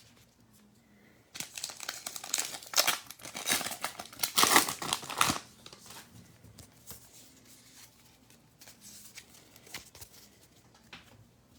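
A trading card pack wrapper being torn open and crinkled for about four seconds, followed by faint rustling and clicks as the cards are handled.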